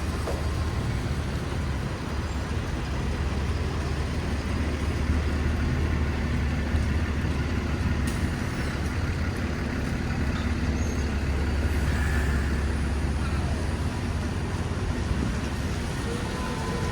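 Steady city street traffic: a constant low rumble of passing motor vehicles with a noisy hiss over it.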